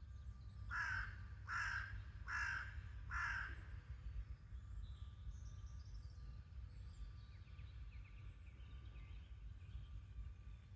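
A bird gives four harsh, evenly spaced calls about half a second apart, then faint twittering of small songbirds follows.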